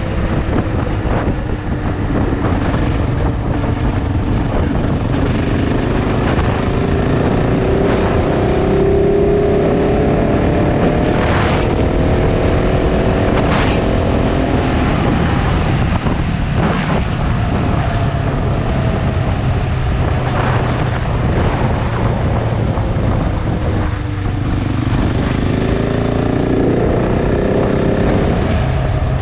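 KTM 690 Enduro R's single-cylinder engine running under way, its pitch climbing steadily as the bike accelerates. It drops off about three-quarters of the way through, then climbs again near the end.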